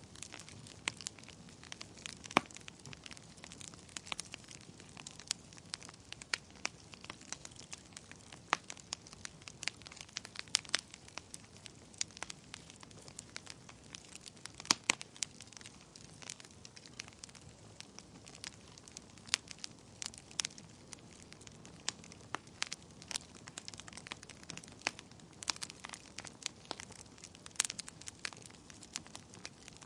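Wood fire burning in a fireplace: a soft, steady hiss of flames with frequent irregular sharp crackles and pops from the burning logs.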